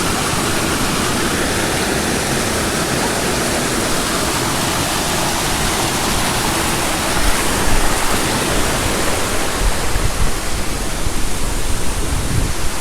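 Large waterfall, the main drop of Aber Falls: water falling heavily in a loud, steady, full rushing noise. From about halfway through, an uneven low rumble comes and goes under it.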